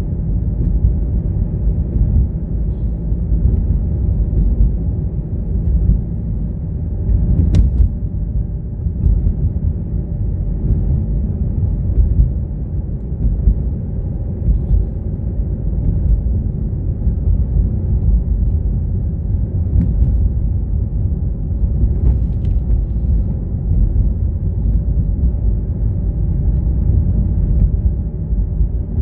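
Steady low rumble of a car on the move, road and engine noise, with a faint steady hum over it. A single sharp click comes about seven and a half seconds in.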